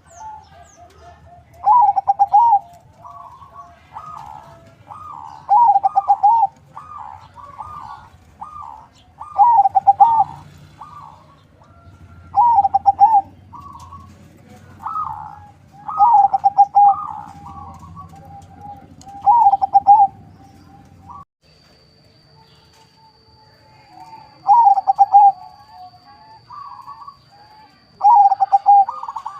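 Zebra dove (perkutut), a Bangkok crossed with a local bird, cooing: a phrase of quick notes rising to a loud ringing note, repeated about every three to four seconds, with a pause of a few seconds past the middle.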